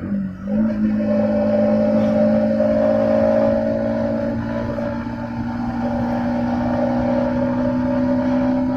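Yamaha MT-15's single-cylinder 155cc engine running through its stock exhaust while riding. The engine note dips briefly and picks up again just after the start, then holds a steady pitch that rises slowly.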